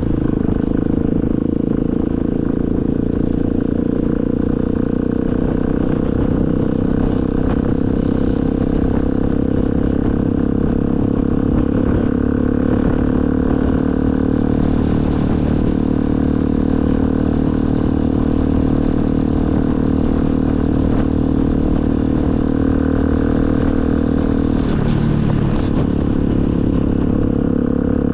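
Motorcycle engine running at a steady speed while riding. Near the end its pitch drops briefly, then picks up again.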